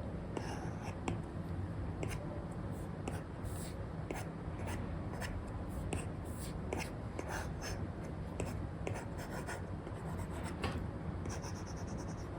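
Stylus nib scratching and tapping on a paper-like screen film over a tablet: many short, irregular pen strokes and light ticks as a sketch is drawn, over a steady low hum.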